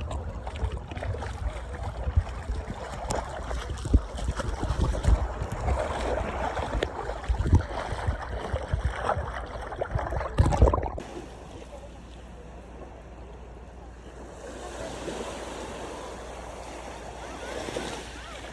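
Wind buffeting the microphone over the sound of sea water, with many irregular thumps, for about eleven seconds. Then the sound cuts suddenly to a quieter, steady wash of waves that swells a little near the end.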